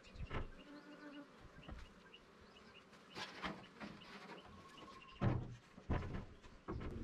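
Agitated honeybees buzzing around an opened hive, the defensive colony stirred up by the inspection. Several knocks and thumps of handling come through it, the loudest about five and six seconds in.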